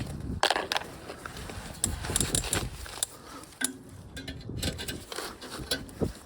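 Metal tools and parts being handled: a run of sharp clicks, clinks and rattles, with a brief squeak a little before the middle.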